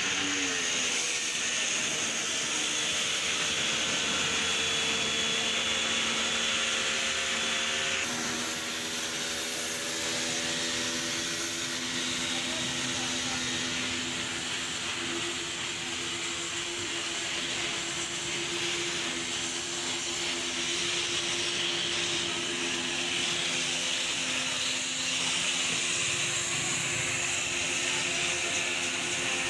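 A machine running steadily with a strong hiss and a steady hum; the hum changes abruptly about eight seconds in.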